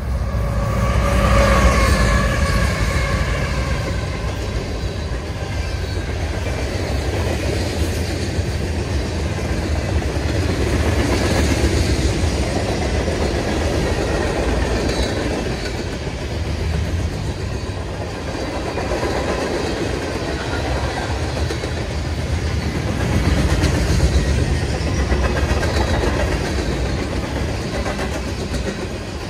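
Freight train passing close by: the lead diesel locomotives go by in the first few seconds with tones falling slightly in pitch. Then a long string of tank cars and covered hoppers rolls past with a steady low rumble.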